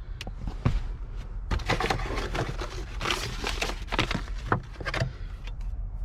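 Rummaging through a car's interior compartments: a quick run of clicks, knocks and rustling scrapes, busiest in the middle, over a steady low hum.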